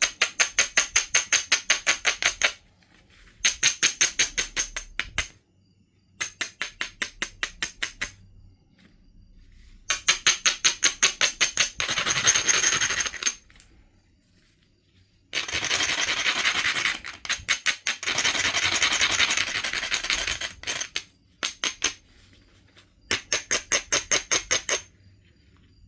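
An abrading stone scrubbed rapidly back and forth along the edge of a Knife River flint piece, the kind of edge grinding done to prepare striking platforms. It comes in bursts of quick gritty strokes, several a second, broken by short pauses and a few longer stretches of steadier grinding.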